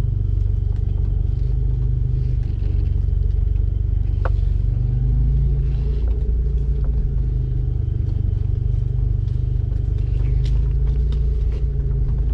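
Off-road 4x4's engine running steadily at low speed, heard from inside the cab, with a few short knocks and rattles from the vehicle as it moves over rough ground.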